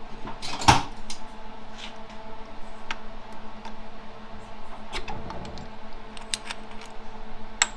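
Metal transmission parts clinking and knocking as they are handled during teardown: scattered clicks, with one sharp knock about a second in. A steady low hum runs underneath.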